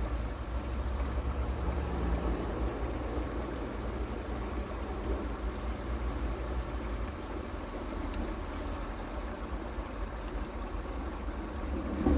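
Creek water flowing steadily, an even rushing noise with a deep low rumble underneath.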